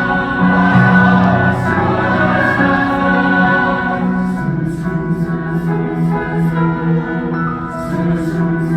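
Honor choir singing long sustained chords, with shorter repeated notes coming in about halfway through.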